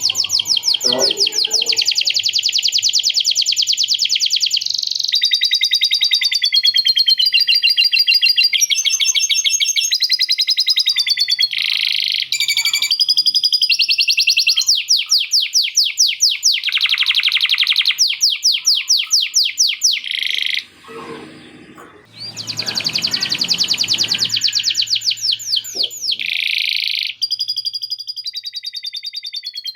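Male canary singing a long, loud song of rapid rolls and trills that change phrase every second or two, with a short break about two-thirds of the way through. Its song is trained with lovebird-style chattering phrases (isian lovebird ngekek) mixed in.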